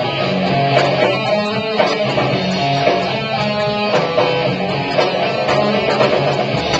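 Live rock band playing an instrumental passage between sung lines, led by guitar with drums and bass, heard through a small camcorder microphone.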